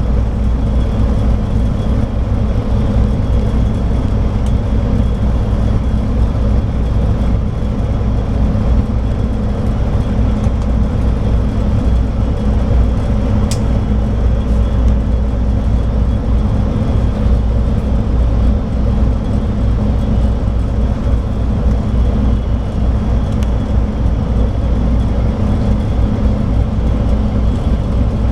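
Scania K340IB bus's DSC9 diesel engine running steadily under way, a constant low drone with road noise.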